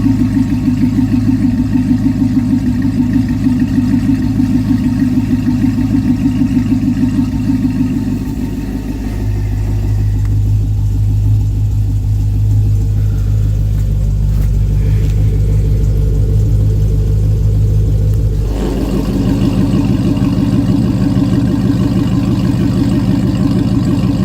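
Pontiac G8 GT's 6.0-litre V8 running at a steady speed through Kooks long-tube headers, a Borla cat-back and QTP electric cutouts, a pulsing exhaust burble. About eight seconds in the note turns deeper and smoother, and after about eighteen seconds it turns fuller and raspier again.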